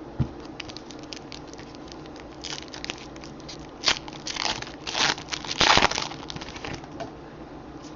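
Crinkling, crackling and tearing of a trading-card pack's wrapper being opened by hand, with a few louder rustling bursts in the middle.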